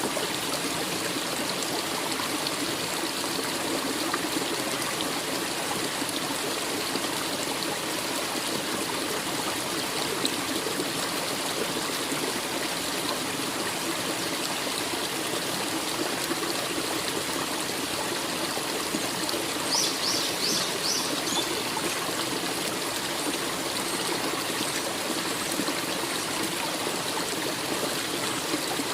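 Forest stream flowing steadily over rocks, an unbroken rush of water. About twenty seconds in, a short run of four high chirps sounds over it.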